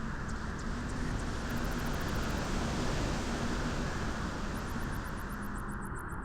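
Wind blowing in a steady rush that swells through the middle and eases slightly near the end.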